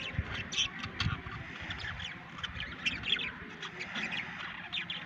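Budgerigars chattering: many short, overlapping chirps and squawks with no pause.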